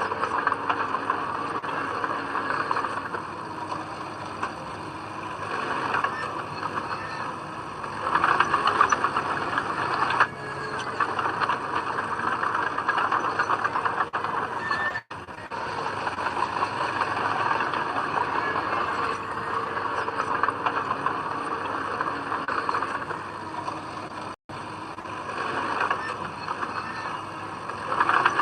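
Heavy diesel earthmoving machinery working, its engine rising and falling in loudness under load. The sound breaks off for an instant twice.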